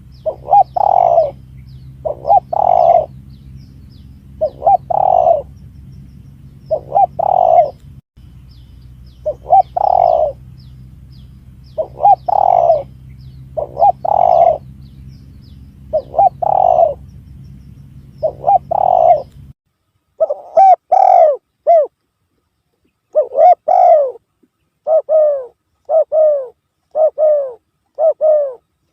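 Spotted dove (tekukur) cooing: repeated call phrases about every two seconds, played as a bird-lure call. A low hum under the calls stops about two-thirds of the way through. After that the coos go on against a clean background, in a quicker run near the end.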